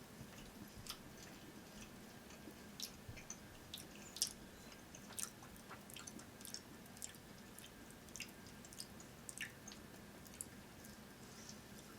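Faint chewing of a soft, sticky mochi daifuku with a peach filling: small irregular wet mouth clicks and squishes, one sharper click about four seconds in.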